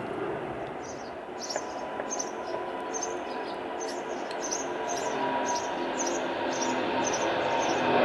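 Jet airliner engines heard from a distance: a steady rumble with faint whining tones, growing louder toward the end. Short high-pitched chirps repeat about twice a second over it.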